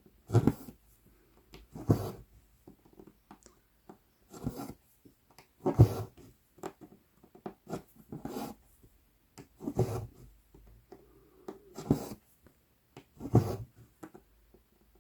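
Embroidery floss and a size 24 needle being drawn through 11-count Aida cloth: a short rasping pull eight times, roughly every one and a half to two seconds.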